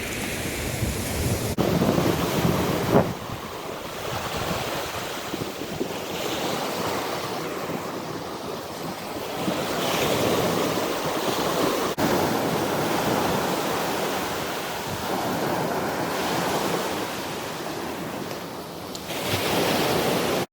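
Sea waves breaking and washing on a sandy beach, the surf swelling and falling back every few seconds, with wind buffeting the microphone.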